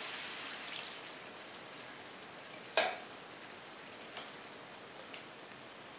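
Chicken korma sauce in a wide pan on the stove sizzling with a steady, gently fading hiss as the just-added water heats toward a boil. A single sharp knock about three seconds in.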